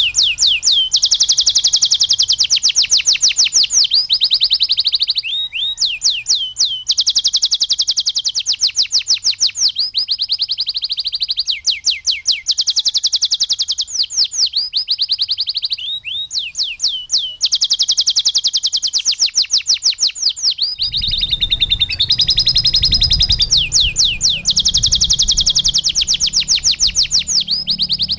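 Canary song: very fast, high-pitched trills repeated in phrases a few seconds long, with short breaks between them. A low rumble joins underneath about three-quarters of the way through.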